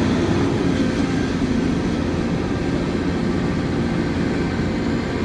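Truck engine running steadily, a constant hum of several held tones over a low rumble.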